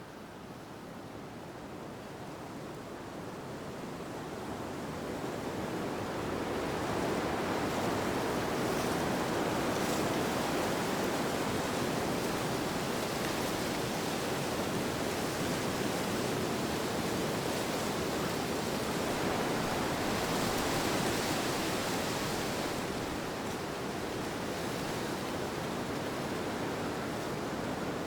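Steady rushing wind with no breaks, swelling over the first several seconds and then holding.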